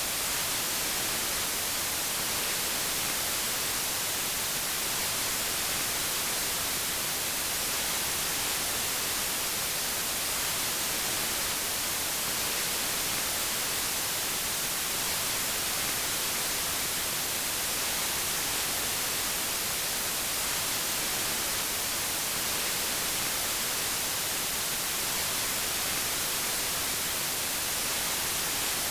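Steady white noise: an even, unchanging hiss that is bright and airy in the treble.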